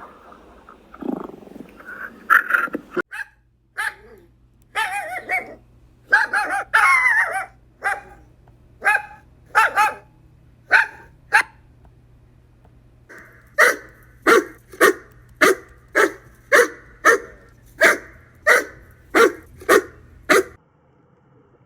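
A dog barking repeatedly: scattered barks at first, then a steady run of about a dozen barks at a little under two a second that stops suddenly near the end. A lower, different animal call fills the first three seconds.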